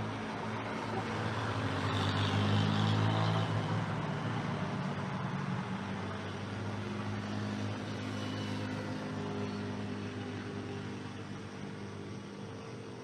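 An engine passing by with a steady low hum, loudest about three seconds in and then slowly fading away.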